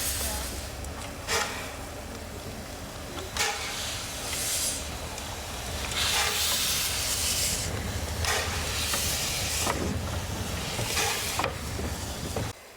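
Steam locomotive letting off steam in irregular hissing bursts over a steady low rumble: two short sharp blasts in the first few seconds, then longer hisses. The sound cuts off suddenly near the end.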